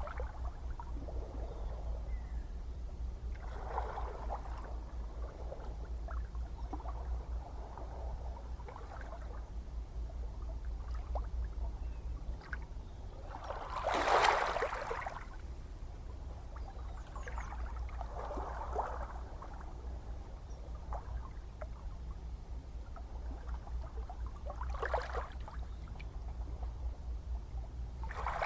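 Gentle ocean waves lapping and splashing over a steady low rumble. A soft splash comes every few seconds, and the largest is about halfway through.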